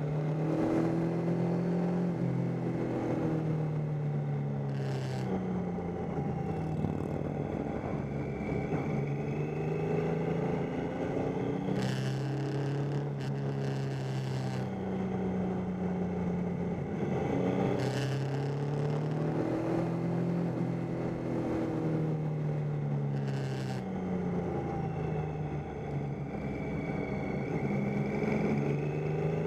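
Triumph Tiger 800's three-cylinder engine under way, its revs climbing and falling again and again as the throttle opens and closes, with wind noise over the handlebar-mounted microphone.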